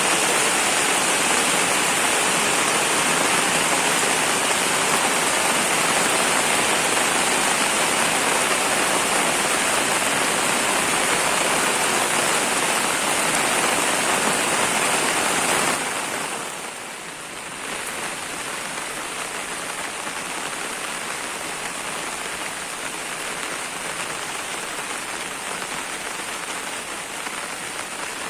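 Heavy rain falling steadily. About sixteen seconds in it drops to a somewhat quieter level and carries on evenly.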